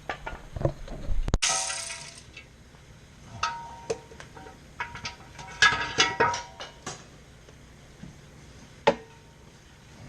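Metal hand tools clinking and clattering against each other, a string of sharp clinks, some ringing briefly, bunched a few seconds in with a last single clink near the end.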